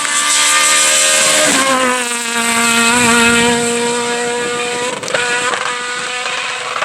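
Renault Clio R3 rally car's engine running hard at high revs, its note dropping in pitch about a second and a half in and then holding steady. About five seconds in the note breaks off and the engine sound turns rougher.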